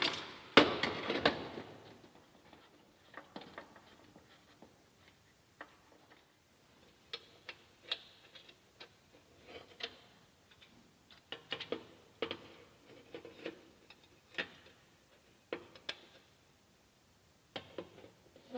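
A short burst of mechanical noise in the first second or so, then irregular light clicks and knocks, like small metal parts being handled and fitted.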